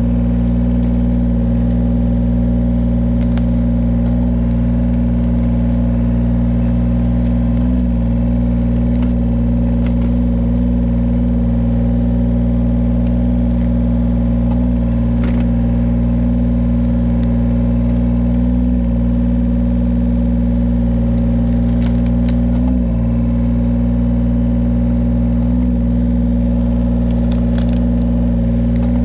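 Engine of a small heavy machine running steadily at an even speed, with a few faint knocks over it.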